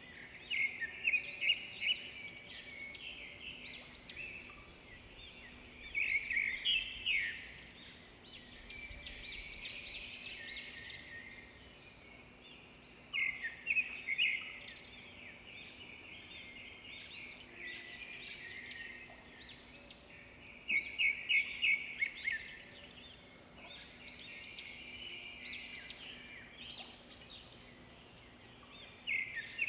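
Wild birds singing and chirping, with bursts of quick high trilled notes about every six to eight seconds and quieter chirps between, over a faint steady low hum.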